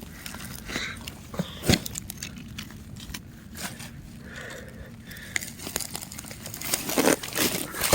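Footsteps and handling noises of someone rummaging through junk: irregular crunches and clicks, with a sharper knock about two seconds in and a cluster of knocks near the end.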